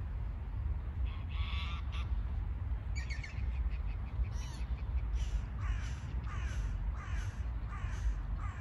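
A bird giving a series of about eight short, pitched calls, starting about a second in and coming closer together toward the end, over a steady low rumble.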